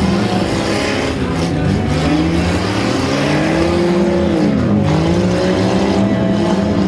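Engines of several demolition derby cars revving, their pitch rising and falling as they accelerate and slow.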